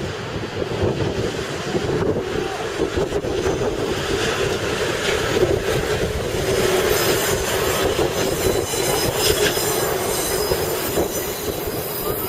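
Okuizumo Orochi trolley train running along the rails: a steady rumble of wheels on track, with some rail clatter. The wheels squeal, and the high squeal grows stronger from about four seconds in.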